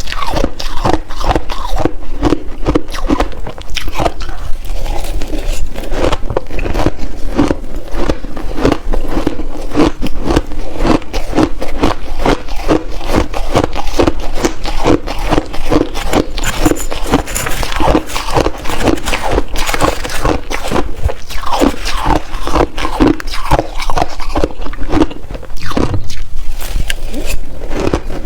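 Close-miked crunching of shaved ice as it is bitten and chewed: a fast, unbroken run of crisp crunches, several a second.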